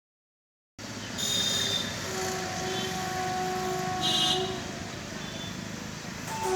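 A train horn holds a long steady note, with several short, higher-pitched horn toots and the hum of traffic around it. The sound starts suddenly a little under a second in.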